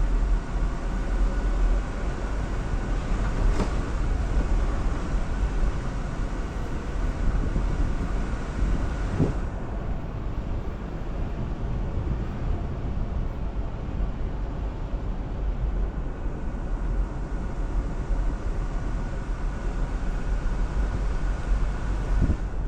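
Jeep Wrangler Rubicon driving slowly on a trail: a steady rumble of engine and tyres, with a few knocks along the way.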